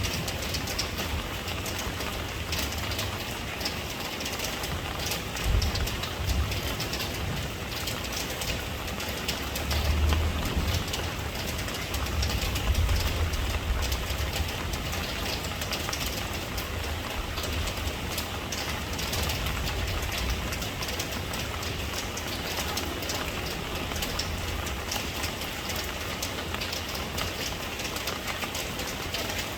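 Steady rain falling, an even hiss, with low rumbles swelling now and then, strongest about ten to fourteen seconds in.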